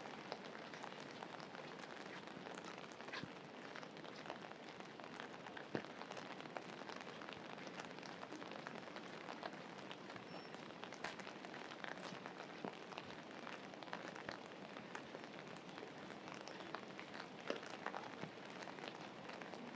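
Steady rain falling, with many separate drops ticking sharply close to the microphone.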